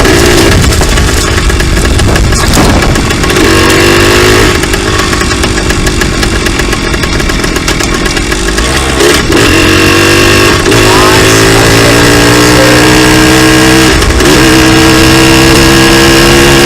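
Dirt bike engine running while being ridden. Its pitch rises several times under throttle and drops back between, as with gear changes.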